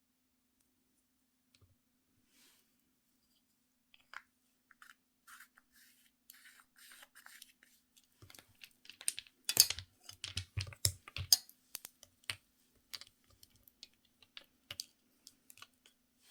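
Irregular light clicks, taps and scratches of small objects being handled. They start about four seconds in and are busiest and loudest in the middle.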